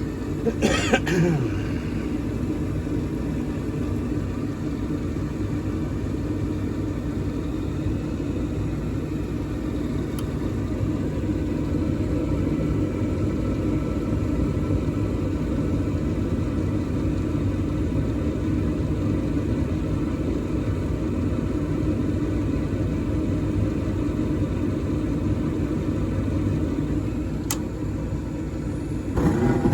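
Carrier gas furnace running after a delayed start-up, a steady low rumble. A brief louder noise comes about a second in, and the sound gets louder just before the end.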